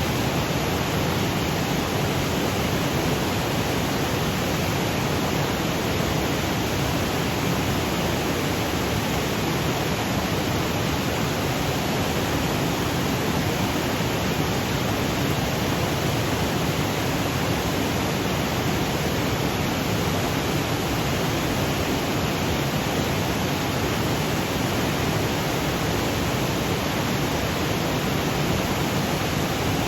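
Waterfall cascading over granite boulders: a steady, even rush of water that does not change.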